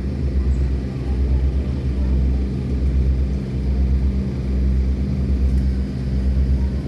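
Boat diesel engine running steadily under load, a deep low-pitched drone with a faint pulsing beat.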